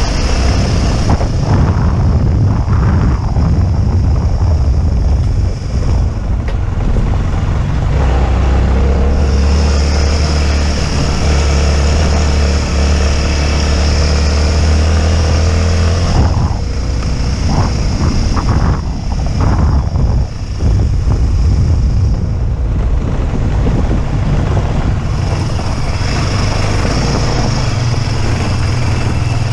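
Motorcycle engine running while riding: it holds a steady note for several seconds midway, then eases off and picks up again a few times.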